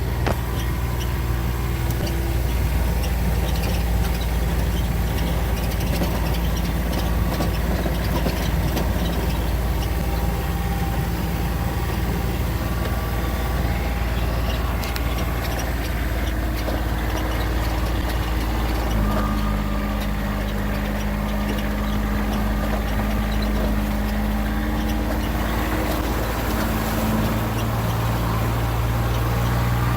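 A motor vehicle's engine running steadily, its pitch shifting about two-thirds of the way through.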